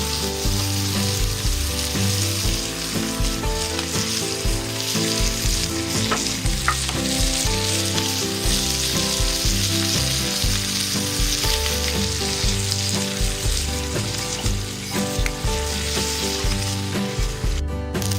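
Peperoncino pasta frying in olive oil in a pan, sizzling steadily as it is stirred and tossed to coat it in the oil.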